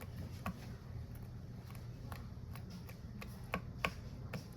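Light, irregular clicks of keys being tapped, about a dozen in a few seconds, with two sharper ones near the end.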